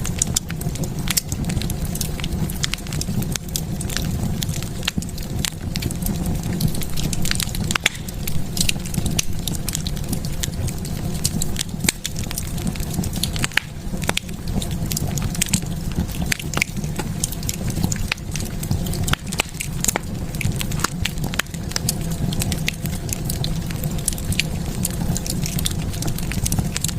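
Wood fire burning in a fireplace, crackling with many small sharp pops over a low steady rumble of the flames.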